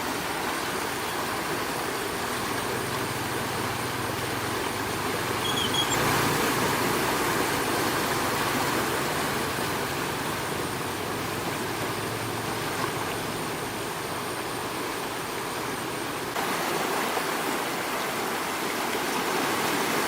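Floodwater rushing steadily, with a faint low hum underneath for much of the time.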